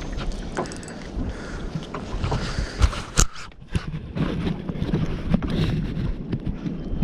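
Wind buffeting the microphone and water lapping against a small boat's hull, with a couple of sharp knocks about three seconds in.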